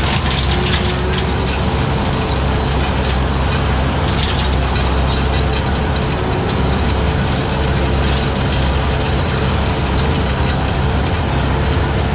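Skid steer engine running steadily under load with its 72-inch brush cutter attachment, a constant low rumble with a faint steady whine over it.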